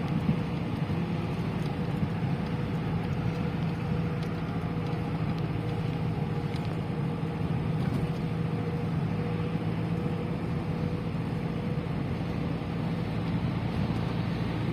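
Steady engine and road noise of a moving car, heard from inside the cabin as a low, even drone.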